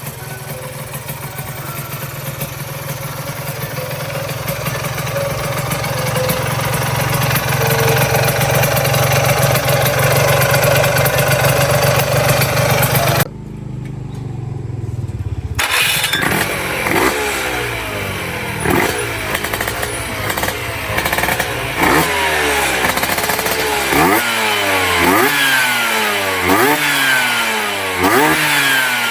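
Two-stroke Vespa engine with a Quattrini 144 cylinder kit, freshly assembled and running. At first it runs steadily, then after a brief break about halfway it is revved again and again, each throttle blip rising sharply in pitch and falling back, roughly one a second.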